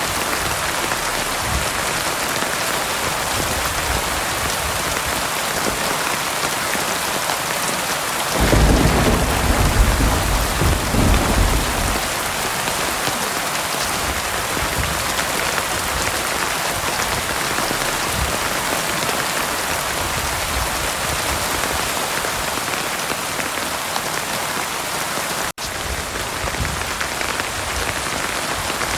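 Heavy rain falling steadily, with a low rumble of thunder about eight seconds in that lasts some three seconds. A split-second gap in the sound comes near the end.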